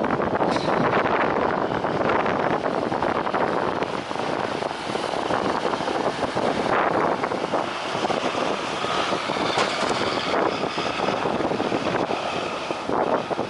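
Jet airliner engines running over wind noise on the microphone, with a steady whine coming in about eight seconds in.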